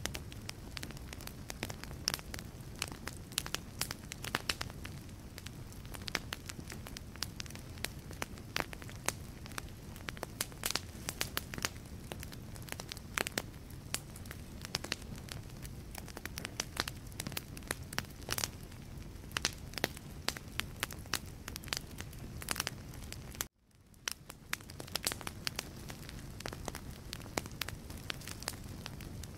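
Wood fire burning in a fireplace: irregular sharp pops and snaps of crackling logs over a steady low rumble of the flames. About three-quarters of the way through, the sound cuts out for an instant and fades back in.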